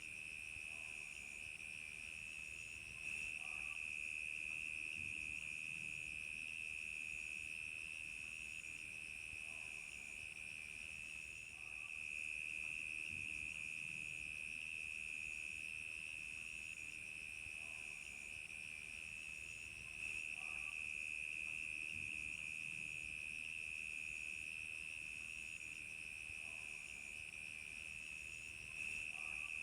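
Crickets chirping in a steady, high-pitched chorus, with fainter, higher insect trills layered over it. The chorus swells slightly about every eight or nine seconds.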